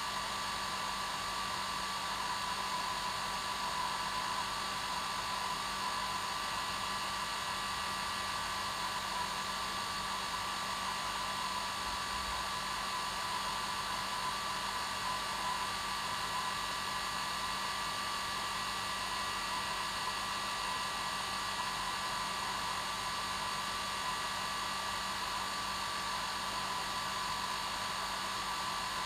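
Hair dryer running steadily, a constant whooshing blow with a whine near 1 kHz and a low hum underneath, used as white noise.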